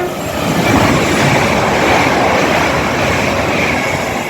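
Express passenger train passing through the station at speed: a loud, steady rushing of wheels and air that builds about half a second in and eases off near the end.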